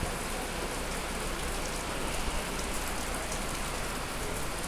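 Steady rain falling, an even hiss of drops hitting surfaces.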